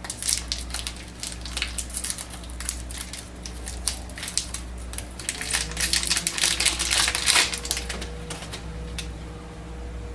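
Plastic ink-cartridge packaging crinkling and crackling as it is handled and opened, in dense irregular clicks that are loudest about six to seven and a half seconds in. A faint steady hum sets in about halfway through.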